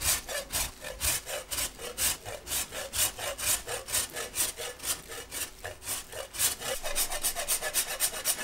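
Candle wax being grated on a Parmesan grater: short rasping strokes of the candle across the grater's blades, about three to four a second, quickening near the end.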